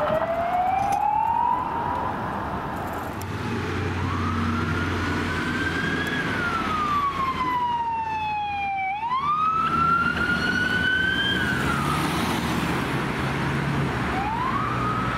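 Emergency vehicle siren sounding a slow wail, its pitch sliding up over a few seconds and back down, then rising again, with a vehicle engine running underneath through the middle.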